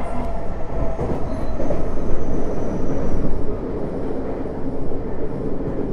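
Tokyo Metro 05 series train running, heard from inside the car: a steady rumble of wheels on rail with the faint whine of its Mitsubishi IGBT inverter drive. The noise swells for about a second and a half midway, then eases.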